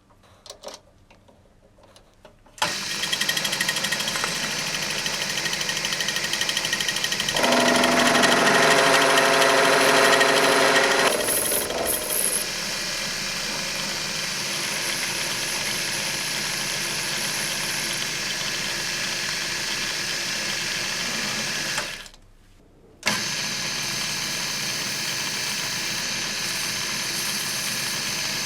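Power tool running steadily on the brass ferrule. It gets louder with a pitched whine from about 7 to 11 seconds in, stops briefly around 22 seconds, then runs again.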